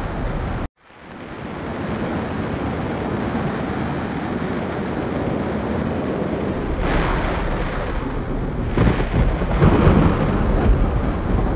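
Storm noise: a steady, loud rushing of wind and rain. It drops out abruptly less than a second in, fades back up, and swells in rougher gusts from about seven seconds on.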